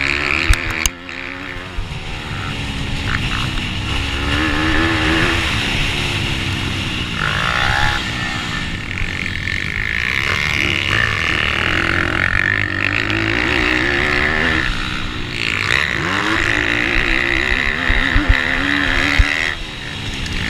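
A 160cc pitbike engine racing at high revs. The pitch rises and falls again and again as it shifts and slows for corners, with brief dips a second in and near the end.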